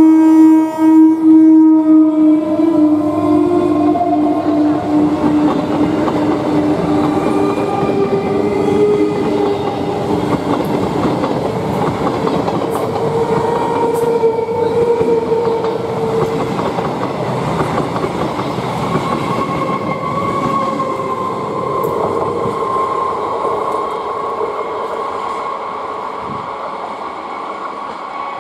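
An Eastern Railway EMU electric local train sounds its horn loudly for about two seconds, then rushes past close by, its wheels rumbling and clattering over the rails with a whine that climbs in pitch. The sound fades near the end.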